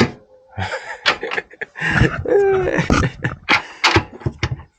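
A dog whining and whimpering in short, pitch-bending calls, with a few sharp knocks mixed in.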